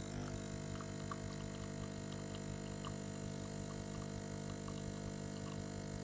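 Breville BES860 espresso machine's vibration pump humming steadily as it pushes water through the coffee for a single shot.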